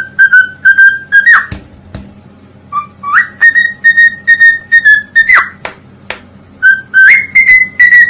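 Parrot whistling: runs of short, evenly spaced notes on one pitch, each run ending in a quick swooping glide, repeated as a phrase several times.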